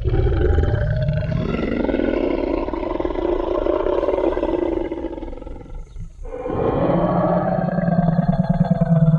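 T. rex roar sound effect: a long, deep roar lasting about six seconds, then a brief pause and a second roar that is still going at the end.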